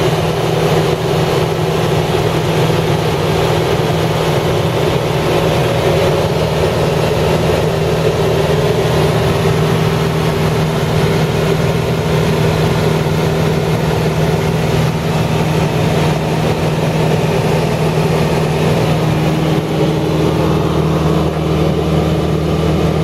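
Steady engine hum with a low drone, changing slightly about 20 seconds in.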